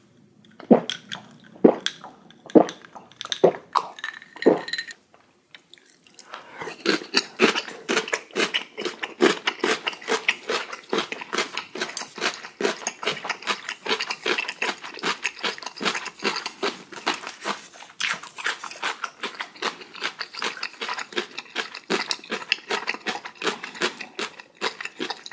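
Gulps from a drinking glass, about one a second for the first few seconds, then after a short pause a person chewing food steadily, a close, fast run of mouth clicks.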